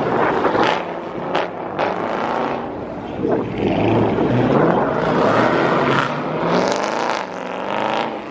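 Several Dodge muscle cars' engines running and revving through their exhausts as the cars pull out, with the pitch rising and falling around six to eight seconds in.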